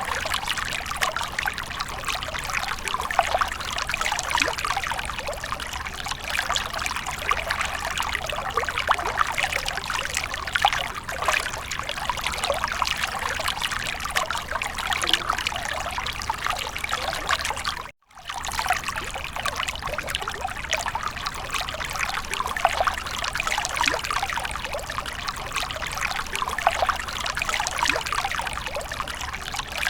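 Water from a fountain splashing and trickling steadily, with a split-second gap about eighteen seconds in.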